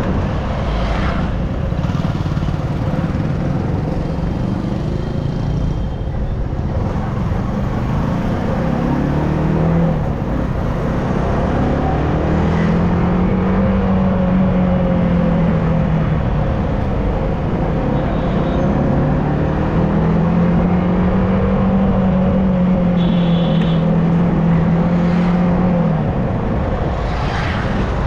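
Yamaha R15M's 155 cc single-cylinder engine under way, its pitch climbing and levelling off several times as the bike accelerates and holds speed, over steady wind and road noise.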